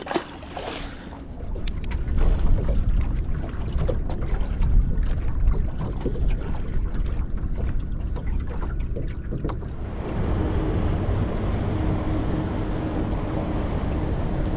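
Wind buffeting the microphone and water slapping against a small boat's hull, with a brief splash at the start as a released squire (small snapper) hits the water. About ten seconds in it turns into a steadier rush with a faint hum.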